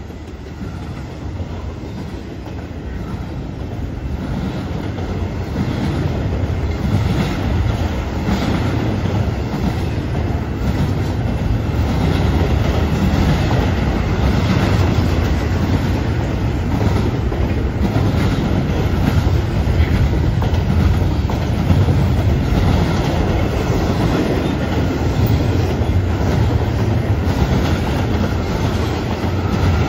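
Double-stack intermodal well cars rolling past close by, steel wheels running and clattering on the rails. It grows louder over the first several seconds, then holds steady.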